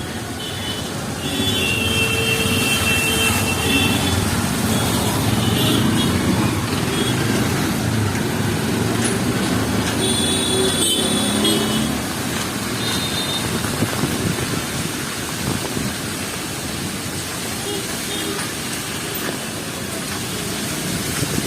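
Busy city street in heavy rain: vehicles passing over wet road under a steady rush of noise. Short high tones cut through twice, about two seconds in and again about halfway.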